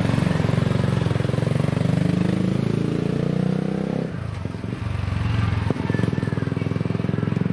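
Megelli 250R single-cylinder four-stroke motorcycle engine pulling away and accelerating. Its pitch climbs steadily, then drops sharply about four seconds in at a gear change, and it runs on. The engine has a freshly replaced piston and cylinder and is being run in.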